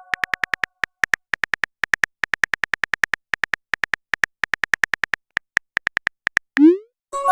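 Phone keyboard typing sound effect: quick, sharp taps in irregular runs, like a message being typed. About six and a half seconds in, a short rising whoosh, the message-send sound.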